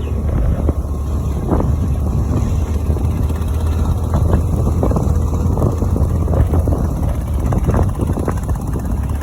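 Vehicle driving along a rough, rain-soaked estate track, heard from inside: a steady low rumble with frequent irregular knocks and rattles from the bumps.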